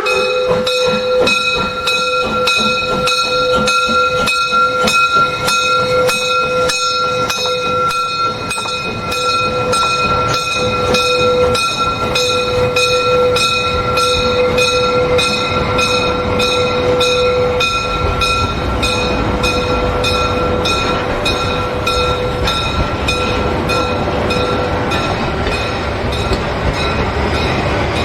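Narrow-gauge train running, with an even, repeating beat and steady high squealing tones that fade out near the end, while a low rumble builds.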